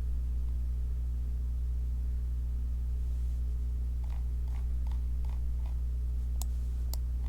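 Steady low electrical mains hum, with a run of soft mouse-wheel ticks about four to six seconds in and two sharp computer-mouse clicks near the end.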